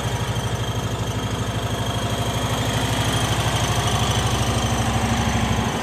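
1980 Cushman Truckster's engine idling steadily with an even, rapid pulse.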